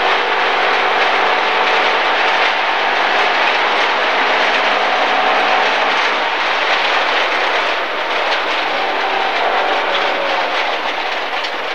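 MG ZR 1.4 rally car's engine running hard on a gravel stage, heard from inside the cabin, with a steady rush of tyre and gravel noise. The engine note changes about eight seconds in.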